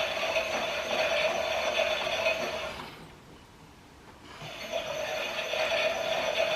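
Toy Miele washing machine's small electric motor turning the drum with a steady whine, which stops about three seconds in and starts again a second and a half later, as the pretend wash cycle pauses and restarts the drum.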